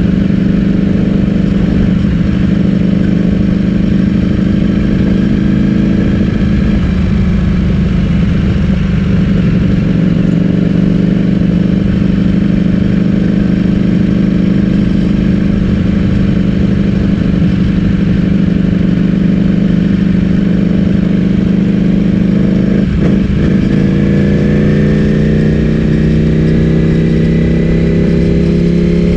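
Ducati Streetfighter V4S's V4 engine through an Akrapovic full-system exhaust, running loud at a fairly steady engine speed. The note dips briefly late on, then rises slightly in pitch at the end.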